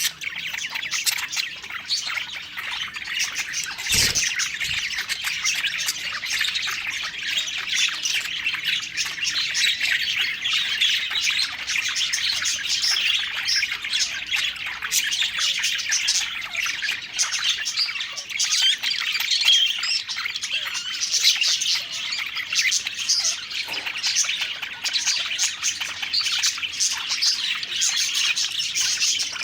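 Several budgerigars (parakeets) chirping and chattering continuously, their calls overlapping, with a single knock about four seconds in.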